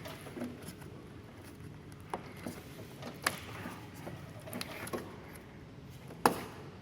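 Scattered sharp clicks and knocks of hand work on an air conditioner indoor unit's pipe connection. The loudest knock comes near the end.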